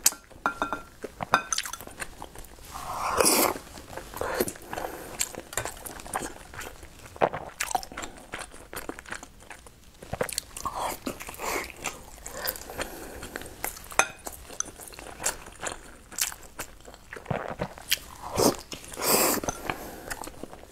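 Close-miked chewing and smacking of sticky rice zongzi, with many short clicks of chopsticks against a glass bowl. A few louder wet mouth sounds stand out, one about three seconds in and two near the end.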